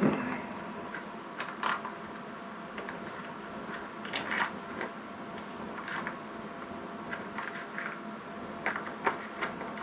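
Light metallic clicks and knocks at irregular intervals while a small toy steam engine and its spirit burner are handled, over a steady low hiss.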